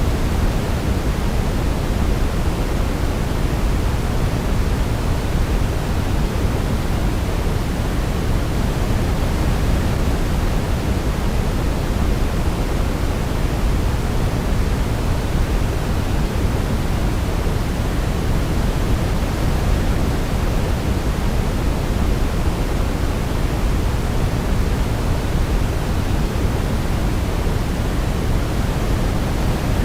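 Steady sleep-aid noise, even and unbroken, weighted toward the deep end like pink noise, with no melody standing out.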